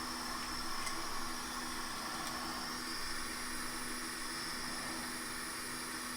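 Steady airflow hiss with a faint steady hum from fan-driven soldering-bench equipment. A couple of faint ticks come about one and two seconds in.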